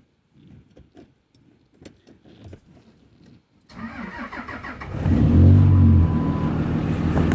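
A cold start of a 5.9 L Cummins turbo diesel with a 4-inch straight-pipe exhaust. After a few faint clicks, the starter cranks it from a little before 4 seconds in. It catches about a second later, flares up loudly and settles into a steady idle.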